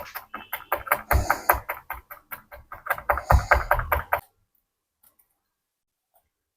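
A rapid, even run of sharp knocks, about six a second, stopping abruptly about four seconds in.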